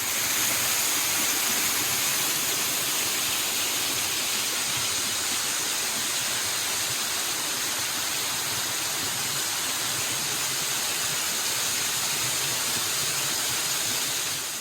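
A waterfall falling steadily: an even, unbroken rush of water, strongest in the high range, fading out near the end.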